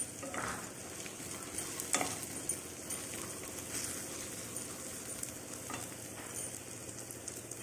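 Roasted peanuts, onions and curry leaves sizzling in mustard oil in a kadai, stirred with a wooden spatula that scrapes the pan a few times.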